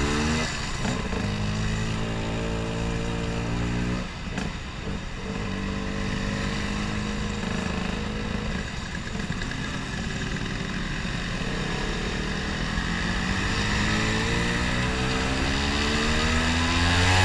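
Vespa scooter engine running, its pitch dropping about half a second in and climbing steadily over the last few seconds as it revs up.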